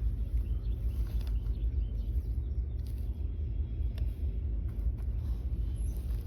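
Outdoor ambience: a steady low rumble with faint bird chirps and a couple of soft clicks.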